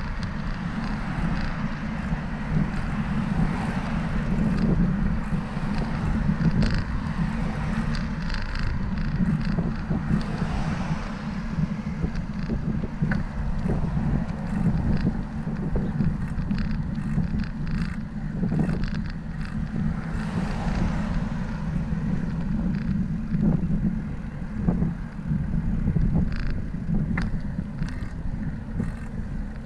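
Steady wind rushing over the microphone of a moving bicycle, a constant low rumble with scattered short clicks.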